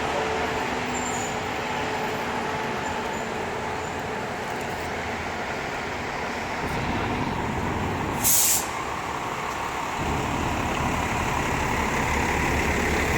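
Heavy vehicles running on a city street with a steady engine rumble that grows stronger about ten seconds in, and one short sharp hiss of air brakes a little past eight seconds in.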